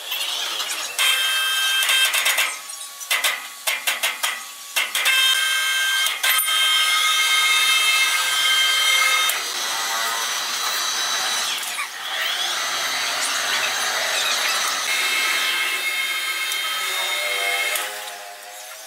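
Sawmill power saw cutting through wood: a steady high-pitched whine in stretches over a rasping cutting noise, with a run of rapid clatter about three to five seconds in.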